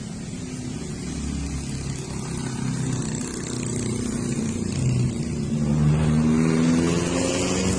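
Washing machine motor running up to speed: a hum of several pitches that slowly rises and grows louder, loudest near the end.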